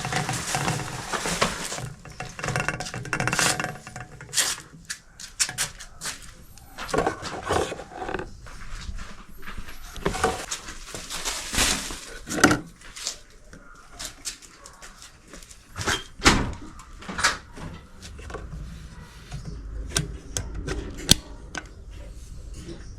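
Irregular handling noise: scattered knocks, clicks and rustles of objects being moved and set down, with some louder clunks around the middle.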